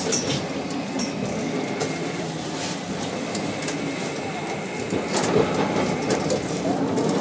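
Streetcar running on its rails, heard from inside the car: a steady rumble of wheels and running gear with a few sharp clicks, getting a little louder about five seconds in.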